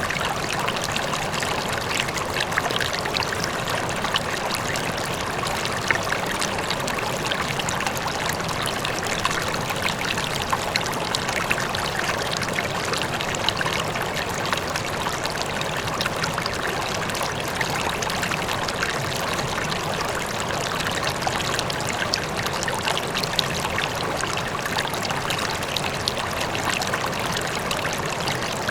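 River water flowing steadily over stones, a dense, even rush with many small splashes and gurgles, with a waterfall faintly in the distance.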